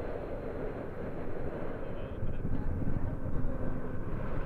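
Boeing C-17A Globemaster III's jet engines running as it taxis, a steady rumble that grows louder about two seconds in.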